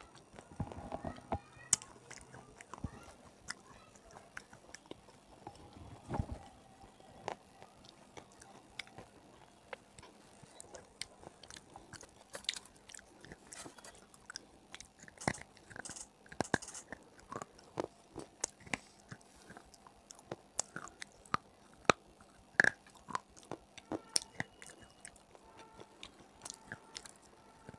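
Close-miked biting and chewing of hard brown 'stone' chunks (the brittle clay pieces eaten in ASMR): irregular sharp crunches, a few louder bites about three-quarters of the way through.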